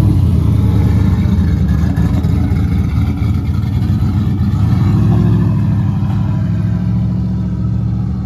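A Fox-body Ford Mustang's engine running with a deep, choppy exhaust note as the car pulls out, then accelerating away. Its pitch rises about five seconds in, and the sound eases slightly near the end as the car draws off.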